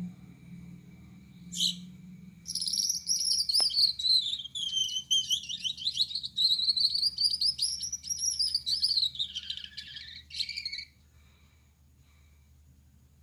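Male Gouldian finch singing. A short call comes about a second and a half in. A song of rapid high notes follows and lasts about eight seconds, stopping about eleven seconds in.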